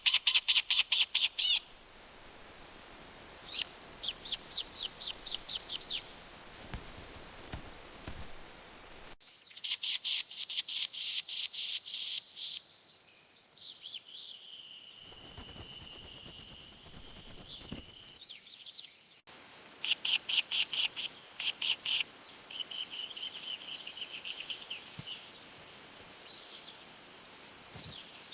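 Small birds calling in rapid runs of high chirps, several quick notes a second, with a held high whistle in the middle, across several spliced clips.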